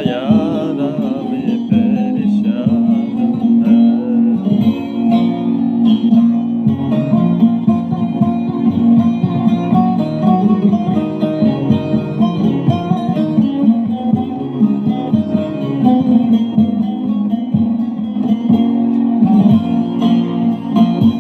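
Instrumental folk music on a plucked string instrument, with no singing.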